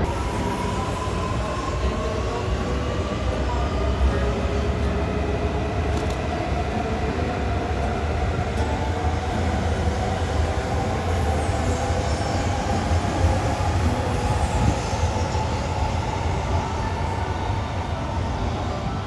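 Shinkansen train moving along the platform with a steady low rumble and an electric motor whine that slowly rises in pitch, as of a train picking up speed.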